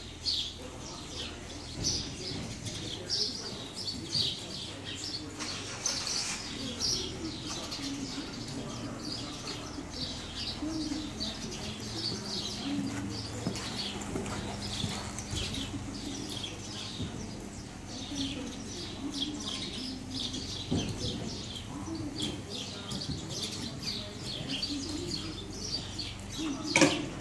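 Small birds chirping over and over, with a faint steady low hum through the middle stretch and a short sharp knock near the end.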